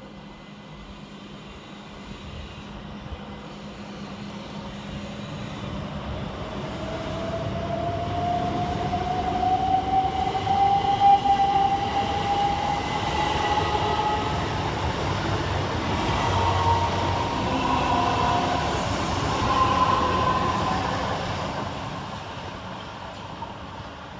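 Electric multiple-unit train running through the station, its traction motors whining in a tone that climbs steadily in pitch over a rumble of wheels on rail. It builds up to its loudest about halfway through, then fades near the end.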